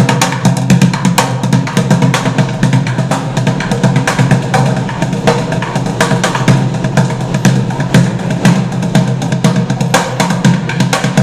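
Live music dominated by drums and hand percussion playing a fast, dense beat.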